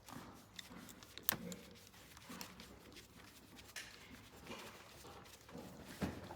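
Faint handling noises: a few sharp clicks and taps spread out over the seconds, with light rustling between them, as small parts are handled.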